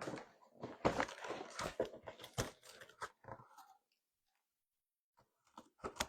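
Cardboard box and its packaging being handled: a run of knocks, crinkles and rustles over the first three or so seconds, then a couple of seconds of near silence and a few more clicks near the end.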